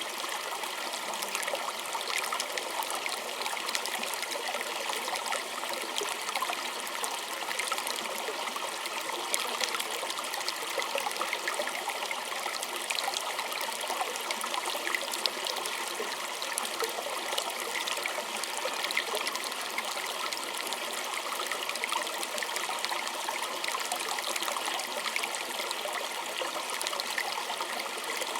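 Small stream running over stones, a steady babble of water with many small splashes and trickles.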